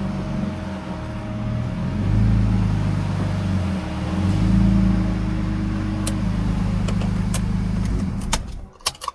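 BMW E46 328Ci's inline-six engine running at low revs, its note stepping up and down a little, then switched off about eight seconds in, followed by a few light clicks.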